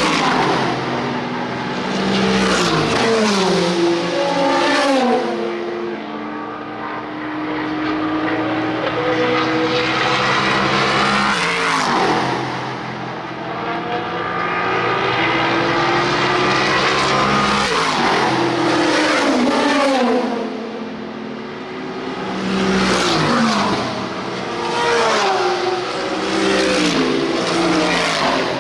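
IMSA sports car race cars passing at speed in several waves. Their engine notes fall in pitch as each car goes by, some stepping down through the gears, with overlapping cars at the start and again near the end.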